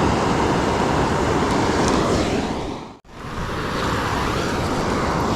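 Steady roar of a waterfall's falling water. The sound fades out briefly about halfway through and swells back again.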